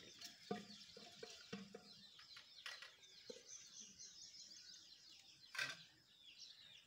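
Faint background chorus of small birds chirping steadily, with one sharp knock about five and a half seconds in.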